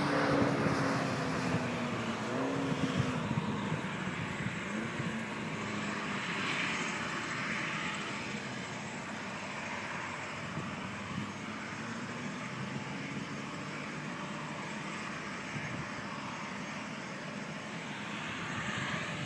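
Sports car engine running on a test track, loudest at first with its pitch dropping and wavering over the first few seconds, then settling into a steadier, fainter engine sound as the car moves off.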